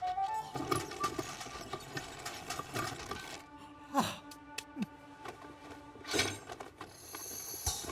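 Cartoon soundtrack: light music with held notes under comic sound effects, including clicks and two quick falling swoops about four and five seconds in.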